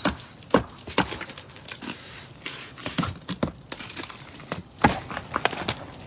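Irregular sharp knocks, cracks and crunches of hard ice, about a dozen in a few seconds, some loud and some faint.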